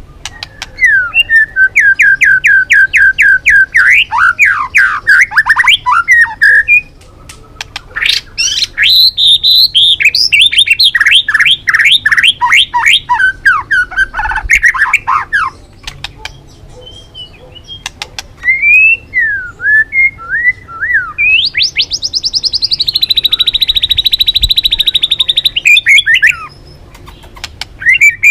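White-rumped shama (murai batu) singing in loud, fast phrases with short pauses between them. The phrases are runs of rapidly repeated notes, a few slurred whistles, and, near the end, a long rapid high trill.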